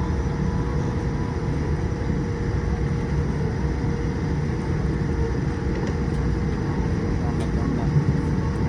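Steady cabin noise inside a Boeing 787-8 on the ground after landing: a continuous low rumble with a thin, constant hum above it.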